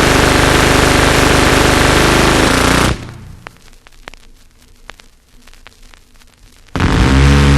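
A continuous burst of rapid automatic gunfire that cuts off about three seconds in. Vinyl record surface noise with scattered pops and clicks follows in the gap between tracks. Near the end a loud, steady engine drone starts abruptly.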